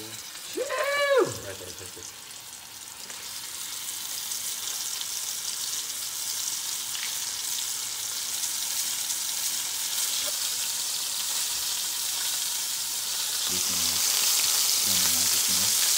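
Battered catfish pieces frying in hot oil in a stainless steel skillet: a steady sizzle that grows louder as more pieces go into the pan. About a second in, a person gives a brief rising-and-falling vocal exclamation over it.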